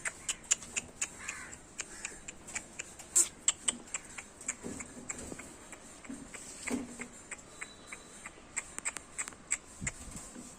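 Puppies moving about: irregular quick clicks and taps, several a second, with a few short soft whimpers or yelps.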